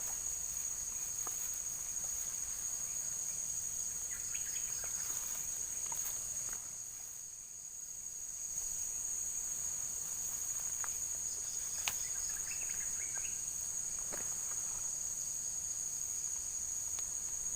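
Steady high-pitched chorus of insects such as crickets or cicadas, briefly fading a little about halfway through, with a few faint clicks.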